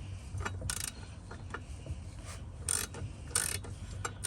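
Ratchet wrench clicking in short bursts, with a quick run of clicks near the end, as it turns a 17 mm socket on an extension and swivel to loosen a motorcycle oil filter.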